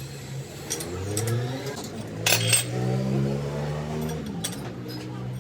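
A machine motor starts about a second in, rising in pitch, then runs with a steady hum. Metal clinks and knocks sound over it, the loudest about two and a half seconds in.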